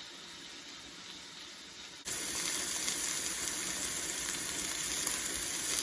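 Steaks sizzling as they fry on a wood-burning stove. A faint hiss at first, then a loud, close sizzle that starts suddenly about two seconds in and cuts off suddenly near the end.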